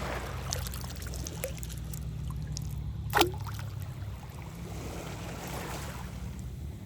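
Shallow seawater trickling and sloshing as something is prodded in the water, over a low steady rumble. About three seconds in comes one short, sharp falling chirp.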